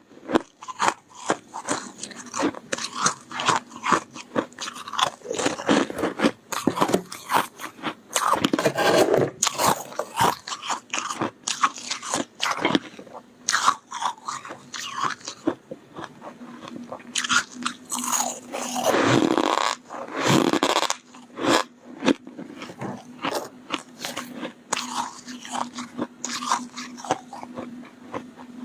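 Close-miked biting and chewing of soft, powdery freezer frost: a dense, irregular run of crisp crunches, with a few louder clusters of bites.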